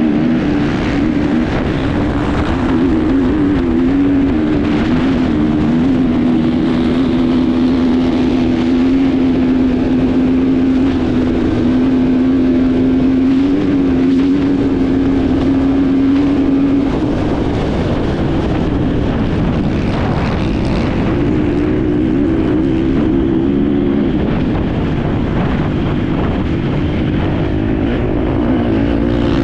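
Enduro dirt bike engine running hard on the move, its pitch wavering up and down, holding nearly level for several seconds in the middle, then dropping back and varying again. Steady rushing noise, probably wind and tyres, runs beneath it.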